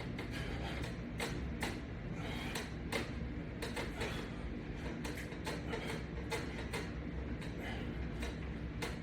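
Resistance-band exercise equipment worked quickly: a run of short, irregular clicks and knocks, several a second, over a low steady hum.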